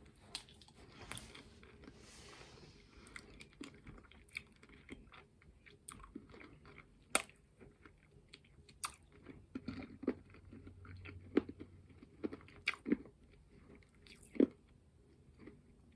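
Faint chewing and crunching of Cry Baby sour candies in the mouth, with scattered sharp crunches.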